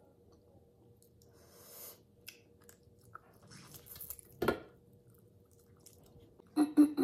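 A person chewing a piece of fried meat close to the microphone, with soft wet mouth clicks. A louder smack comes about four and a half seconds in, and three quick loud lip smacks near the end.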